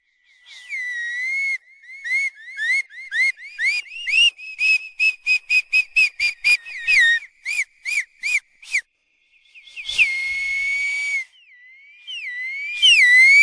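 Whistling: a run of short, high whistle chirps that slide up and down, several a second, broken by longer breathy whistles about ten seconds in and again near the end.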